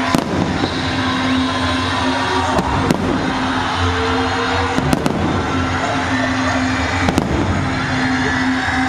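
Aerial fireworks shells bursting overhead: several sharp booms, some in quick pairs, over a steady background din.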